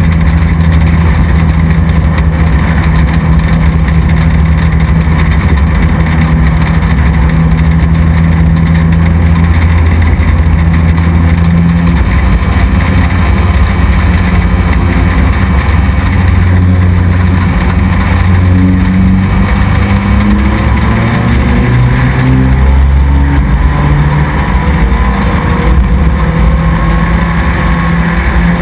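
Race truck engine running hard on track, heard close up onboard, its note dropping and rising as it lifts and accelerates, with several rising revs in the second half.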